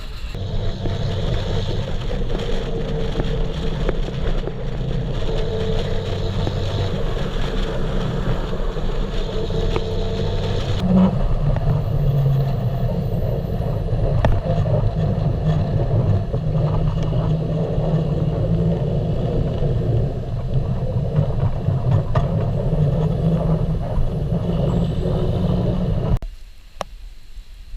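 Steady drone of a running vehicle engine, loud and low. The high part of the sound changes about eleven seconds in, and the drone cuts off abruptly near the end.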